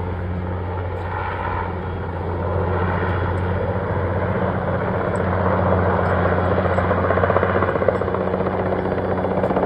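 Helicopter hovering close overhead with a slung HVAC unit, its turbine and rotor droning steadily. The beat of the rotor blades grows louder from about two and a half seconds in as the helicopter comes closer.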